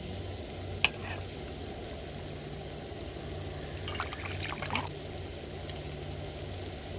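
Steady sizzling of food cooking, with one sharp clink about a second in and a short run of clinks and scrapes around four to five seconds in.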